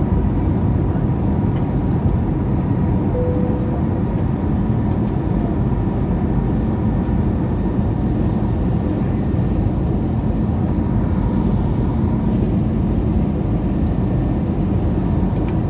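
Steady, loud drone of an Airbus A321's engines and rushing airflow heard from inside the passenger cabin in flight, with a faint steady whine above the rumble.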